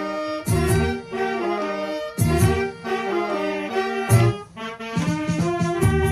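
Saxophone playing a melody of held notes over a band accompaniment with bass and drums.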